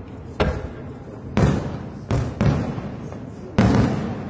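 Aerial fireworks shells bursting: five sharp booms at uneven intervals, each dying away over about a second.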